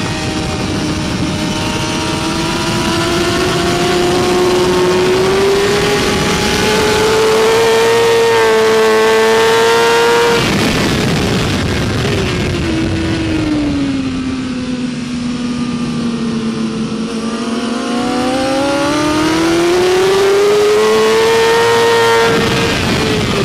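BMW S1000RR superbike's inline-four engine at racing speed, heard on board over wind noise. The revs climb to a high pitch and break off in a gear change about ten seconds in, then sink slowly for several seconds before climbing to the top again, with another gear change near the end.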